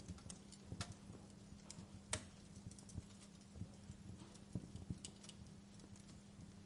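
Wood fire in a fireplace crackling: irregular small pops and snaps, the sharpest about two seconds in, over a faint steady low hum.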